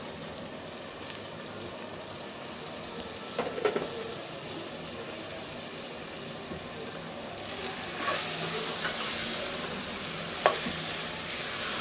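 Hot oily onion-tomato masala sizzling in a metal pot as handfuls of chopped spinach go in. Later the spinach is stirred in with a metal ladle and the sizzling gets louder, with a sharp clink of the ladle against the pot near the end.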